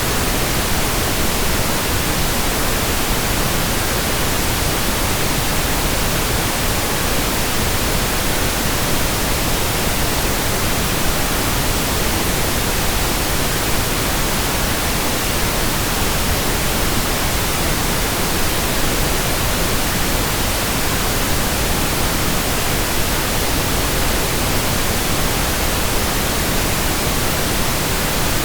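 Pink noise: a steady, even hiss that is unchanging throughout.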